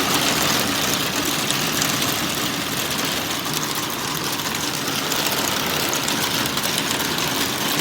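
Heavy rain with hail pouring down, a steady dense hiss with fine pattering impacts.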